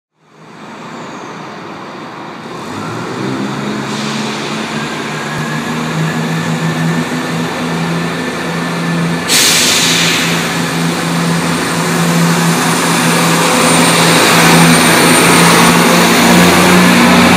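Diesel multiple unit pulling out of a station, its engines humming steadily and growing louder as it gets under way. About halfway through, a loud hiss starts suddenly and carries on under the engine sound.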